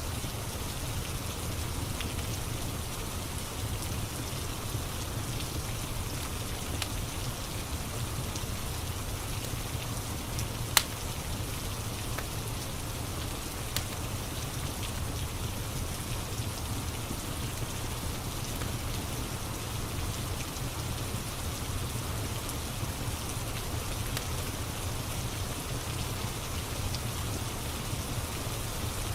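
Steady rain mixed with a crackling wood fire: an even hiss of rain over a low rumble, with a few sparse sharp pops, the loudest about eleven seconds in.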